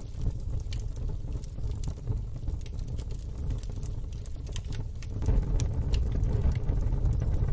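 Wood fire in a fire pit crackling, with scattered sharp pops over a steady low rumble that grows louder about five seconds in.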